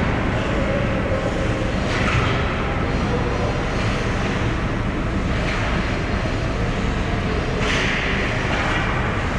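Steady rumble of an ice hockey arena during game play, with brief scraping hisses a few times, the longest near the end.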